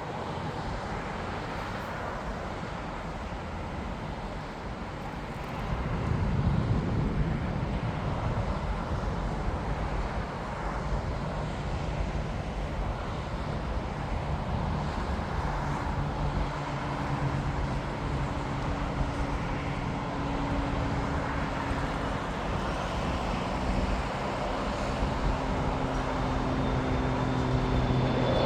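Jet airliner engine noise at an airport: a steady rumble that steps up about five seconds in, with a low engine hum building through the second half and growing louder near the end as an aircraft comes closer.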